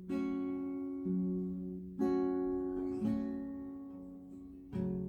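Acoustic guitar strumming chords, about one chord a second, each left to ring and fade before the next.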